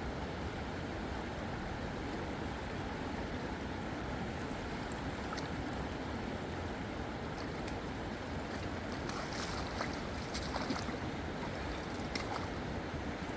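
Steady rushing noise of moving water, with a few short clicks or light splashes toward the end.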